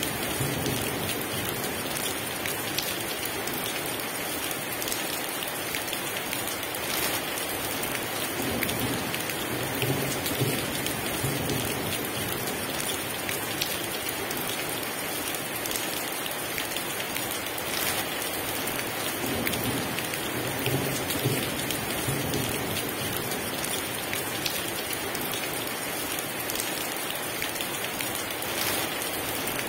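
Heavy rain pouring steadily onto a surface, with scattered individual drop impacts and low thunder rumbling faintly now and then.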